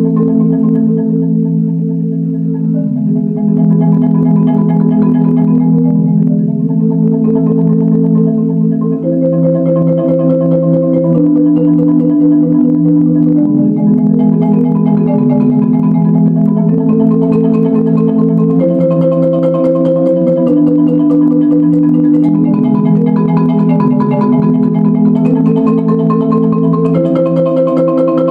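Solo marimba playing a slow chorale in sustained chords, the harmony moving to a new chord every second or two.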